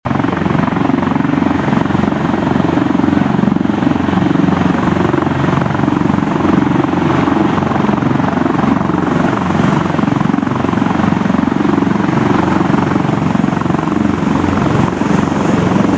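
Twin-turbine military helicopter running, a loud steady rotor beat with engine noise.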